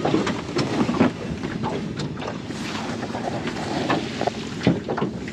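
Wind buffeting the microphone and water around a small boat, with several sharp knocks scattered through.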